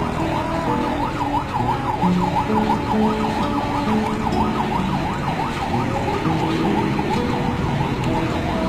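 Emergency vehicle siren in fast yelp mode, sweeping up and down about three to four times a second, with lower held tones shifting in pitch underneath.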